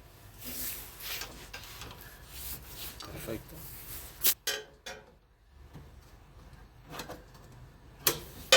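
Small metal parts clicking and scraping as a retaining clip is fitted after a new brass bushing has gone into the washing machine, with sharp clicks about four seconds in and again near the end.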